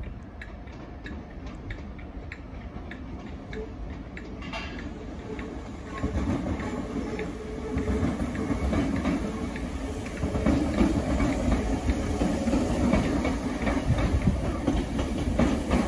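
Southern green-and-white electric multiple-unit train running in over the station approach pointwork, its wheels clicking over rail joints and points. The sound grows louder from about six seconds in as the train draws nearer.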